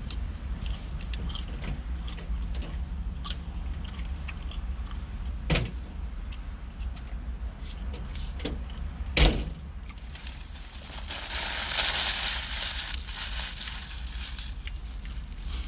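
Eating sounds close to the microphone: scattered small clicks and smacks of chewing a sub sandwich, with two sharp knocks about five and nine seconds in and a few seconds of rustling hiss a little after the second knock, over a steady low rumble.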